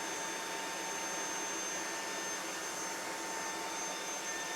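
Proscenic WashVac F20 cordless wet-dry vacuum running steadily in its self-cleaning cycle: an even motor whir with a thin, steady high whine over it.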